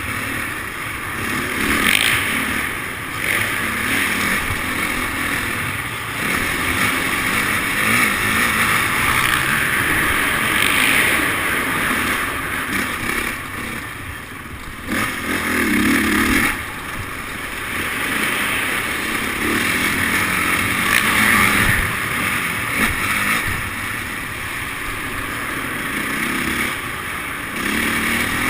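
Motocross dirt bike engine being ridden around a track, revving up and easing off every few seconds.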